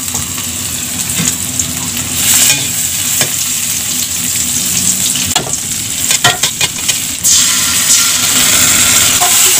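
Chopped chilli and aromatics sizzling in hot oil in a wok, stirred with a metal spatula. A little past halfway comes a run of sharp clicks and scrapes of the spatula against the pan.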